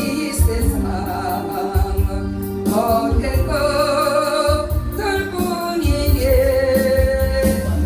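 A gospel praise song: a singer holding long notes with vibrato over an accompaniment with a pulsing bass and a steady beat.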